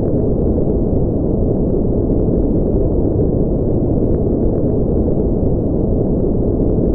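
Continuous white-noise track, deep and even with no high hiss, holding a steady level throughout.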